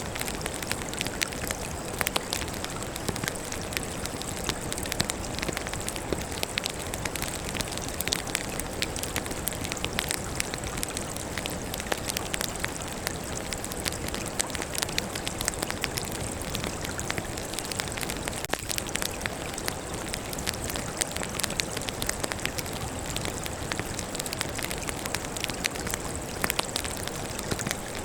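Firewood burning in a campfire: a steady hiss and flutter with many small, quick crackles and pops.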